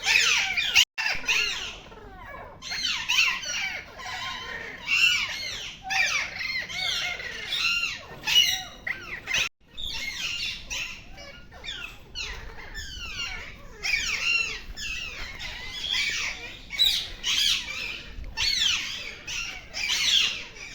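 A flock of parakeets calling, many loud, harsh squawks and screeches overlapping without a break, broken off briefly twice.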